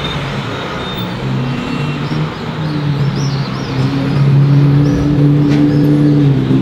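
Sports car engine revving and accelerating, its pitch stepping up and down, growing louder about four seconds in.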